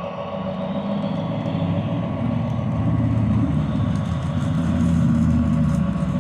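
Lionel GP38 O gauge model locomotive's Railsounds diesel engine sound: a low engine rumble that swells over the first few seconds and eases slightly near the end, with a steady hum underneath.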